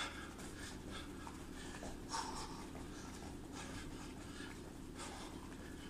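Faint, irregular scuffs and short puffs of breath from a person shadowboxing with small hand weights, over a steady low hum.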